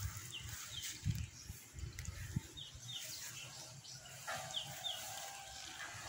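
A small bird chirping outdoors: short, high, falling chirps, mostly in pairs, repeated several times. A few faint low thumps are heard under them.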